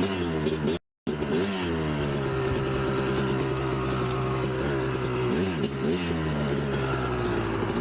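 1999 Kawasaki KX250 two-stroke dirt-bike engine running under way, its pitch easing down and then held steady, with two quick dips in revs and pick-ups a little past halfway. The sound cuts out completely for a moment just under a second in.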